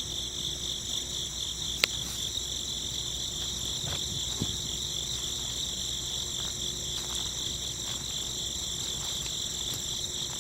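Steady, high-pitched insect chorus with a slight pulsing trill, and a faint click about two seconds in.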